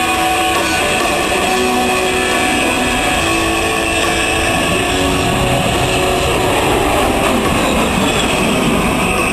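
Jet noise from an A-10 Thunderbolt II's two General Electric turbofan engines as it makes a slow-roll pass, mixed with music from a loudspeaker system.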